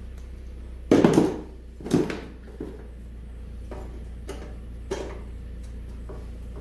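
Clunks and clatters of tools and metal parts being handled while a snowmobile is dismantled: a loud cluster of knocks about a second in, then a string of lighter knocks, over a steady low hum.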